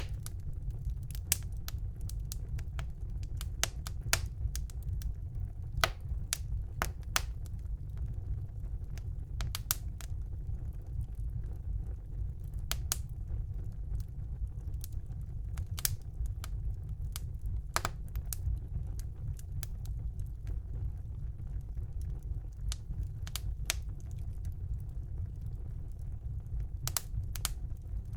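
Wood fire burning in a fireplace: a steady low rumble of the flames with sharp, irregular crackles and pops from the burning logs.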